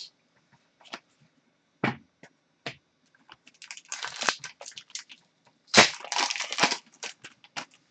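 Trading card pack being handled and opened: a few light clicks, then crackling of the wrapper being torn and crumpled in two stretches, about three and a half seconds in and again near six seconds.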